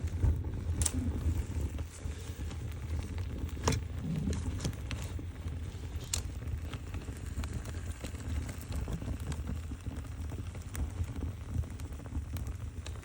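Fire burning with a low steady rumble and scattered sharp crackles and pops, the loudest pops about a second in and near four seconds in.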